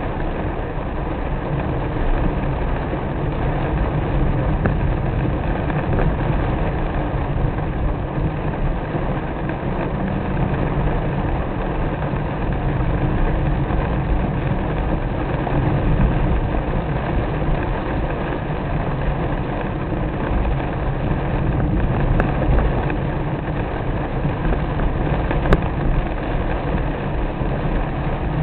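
A car driving in the rain: a steady rumble of engine and road noise with the hiss of rain, unchanging throughout.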